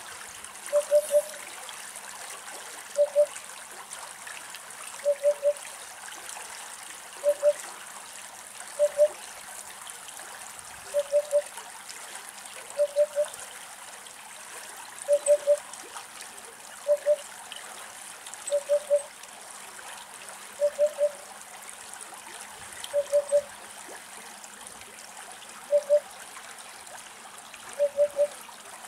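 Eurasian hoopoe calling its soft, low "oop-oop-oop": groups of two or three short hollow notes repeated about every two seconds. Behind them is a steady trickle of running water.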